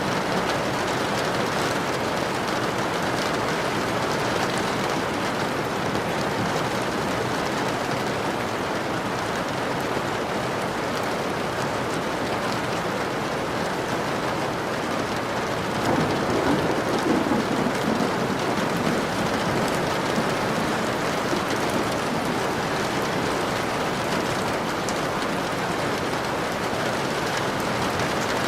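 Steady heavy rain falling on surfaces, with a brief low rumble of thunder swelling about sixteen seconds in.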